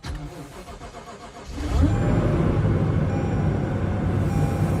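Lexus GX460's 4.6-litre V8 cold-started at about −11 °F. The starter cranks for about a second and a half, then the engine catches and settles into a steady idle.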